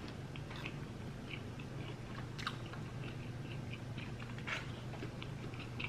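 A person chewing a mouthful of fast food close to the microphone, with irregular small wet clicks and crunches. A steady low hum sits underneath.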